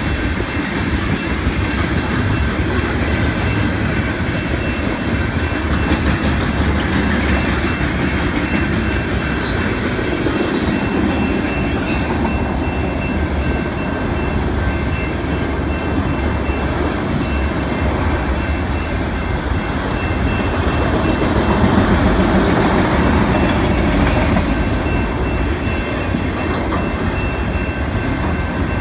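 Freight cars of a CN train, tank cars and then autorack cars, rolling steadily past on steel wheels, with a continuous loud rumble and clatter over the rails.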